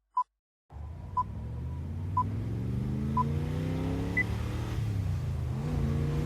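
Countdown beeps, one short tone a second ending on a higher tone about four seconds in, over an engine that starts under a second in and accelerates, its pitch rising, dropping once as if shifting up, then rising again near the end.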